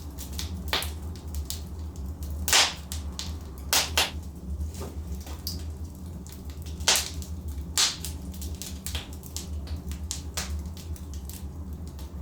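Logs burning in a fireplace, crackling with irregular sharp pops over a steady low rumble of the fire. The loudest pops come about two and a half seconds in, twice near four seconds, and near seven and eight seconds.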